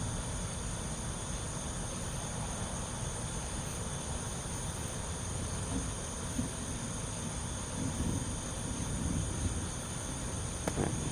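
Steady, high-pitched chorus of insects droning without a break, over an uneven low rumble.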